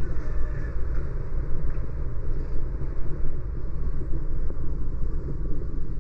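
A car driving on a city street: a steady low rumble of road and engine noise with no distinct events.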